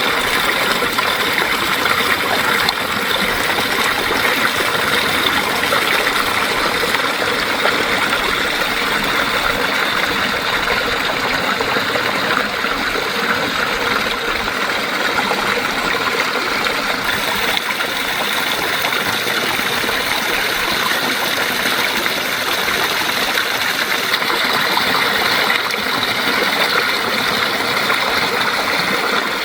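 Garden pond waterfalls running steadily, the water splashing and percolating beneath and through sheets of ice that have formed over the falls.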